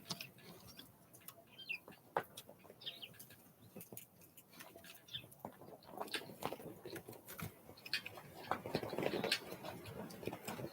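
Small wild birds moving about: scattered taps and knocks with a few brief high chirps, busier in the second half.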